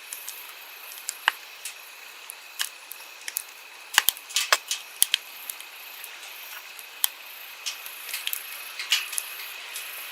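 Wood campfire crackling and popping, with sharp snaps coming irregularly and bunched about four to five seconds in, over the steady rush of a flowing stream.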